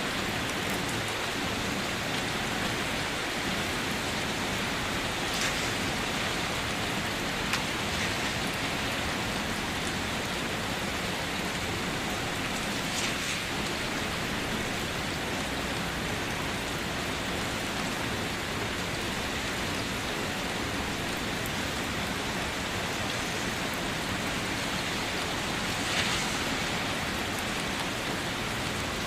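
Steady rain falling and pattering on a surface, an even hiss with a few sharper drops standing out now and then.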